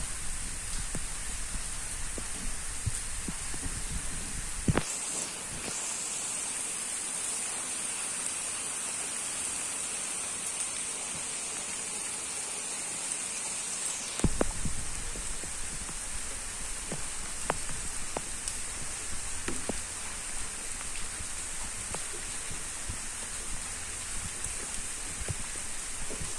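Steady rain, with scattered drip ticks. A low rumble underneath drops away for about ten seconds in the first half, then returns.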